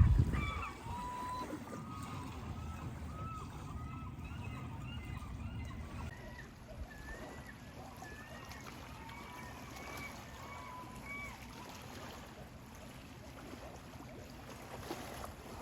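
Water birds calling on the cove: many short, arched, whistled calls, some in quick runs, over a low steady rumble. A low thump comes right at the start.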